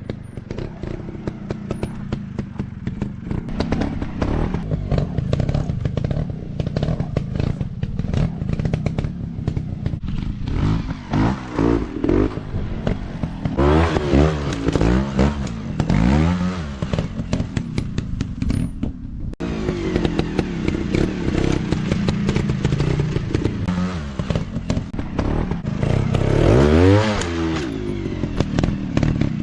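Dirt bike engines revving up and down repeatedly, with steep rises and falls in pitch, over constant clattering and knocking from the bikes working over rough ground.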